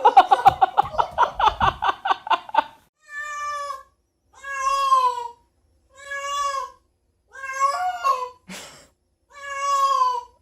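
A cat meowing: a rapid stuttering call for the first two and a half seconds, then five long drawn-out meows about every one and a half seconds. There is a short hiss-like burst between the last two.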